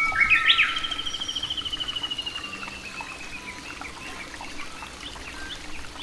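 A songbird singing: a quick rising call, then a long rapid trill that slowly falls in pitch over about two seconds, followed by scattered faint chirps.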